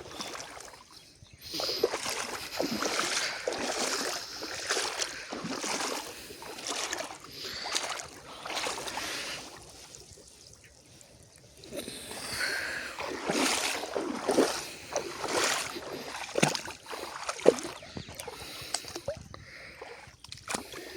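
Irregular splashing and swishing of water, as from wading or paddling through a marsh, with a lull of about two seconds near the middle.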